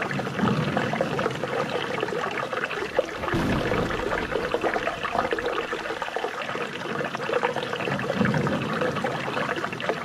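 Flowing water trickling and splashing steadily, with a few deeper gushes every few seconds.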